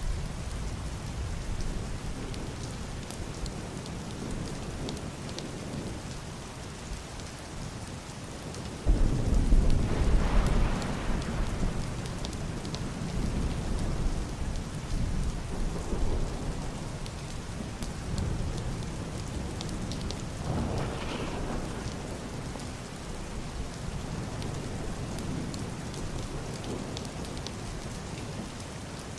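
Heavy rain beating steadily on a roof and window glass, with fine drop ticks. About a third of the way in, thunder breaks in suddenly as a deep, muffled rumble, the loudest part, then rolls on in weaker swells.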